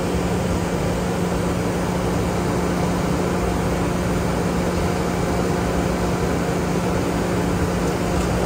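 Long Island Rail Road M3 electric railcar standing at the platform, its on-board equipment giving off a steady hum with a constant low tone.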